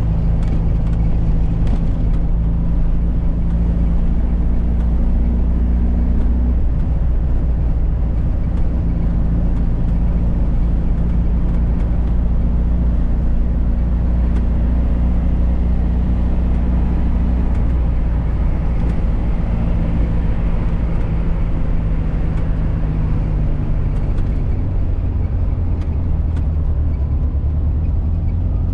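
1985 Volkswagen Fusca's air-cooled flat-four engine running as the car drives along, over road noise. The engine note changes about six seconds in and again near the end.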